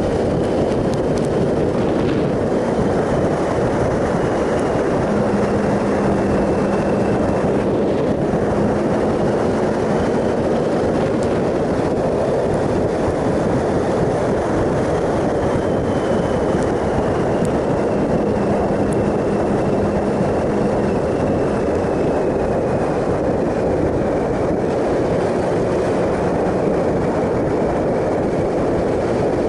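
Triumph Sprint ST 1050's three-cylinder engine running steadily at cruising speed, under a heavy, even rush of wind and road noise. A faint engine tone drifts gently in pitch with small speed changes.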